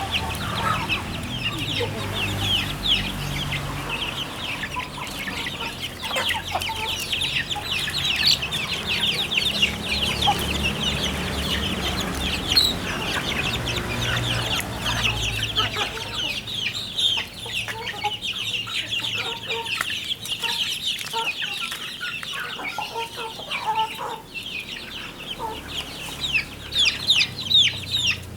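A flock of village chickens calling, with many short, high calls overlapping continuously.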